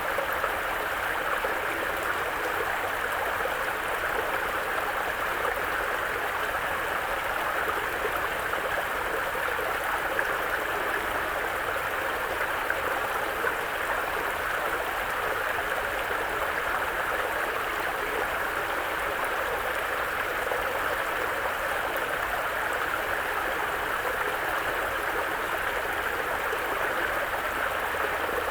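Mountain forest brook, its water running and splashing over rocks in a steady rush.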